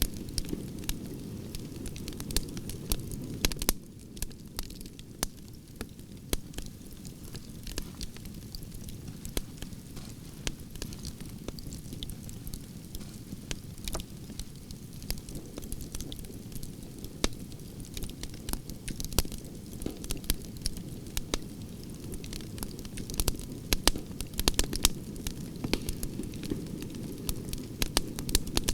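Campfire of burning branches crackling: frequent sharp pops and snaps over a low, steady rumble of flame, the pops coming thicker in the last few seconds.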